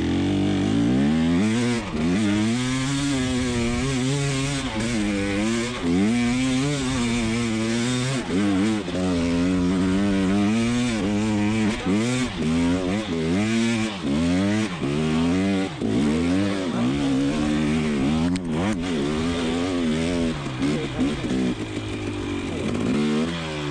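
2020 KTM 300 XC TPI two-stroke dirt bike engine pulling in low gear up a hill, revving up and dropping back over and over as the throttle is worked.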